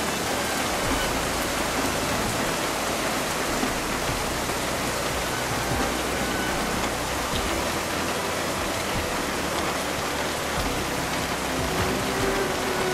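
Heavy rain pouring steadily onto the ground: a dense, even hiss of countless drops splashing, with no let-up.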